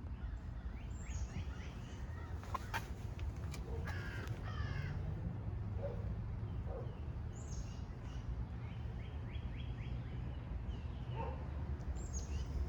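A bird calling in three short runs of repeated notes, over a steady low rumble with a few clicks.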